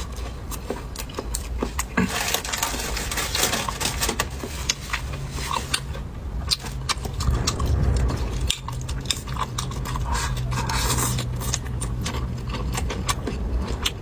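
Close-miked eating sounds: chewing with wet mouth noises, and many light clicks and taps of utensils against dishes.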